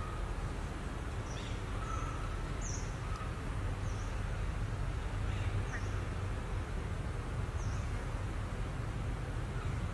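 Short, high chirps falling in pitch, one about every second, over a steady low background rumble.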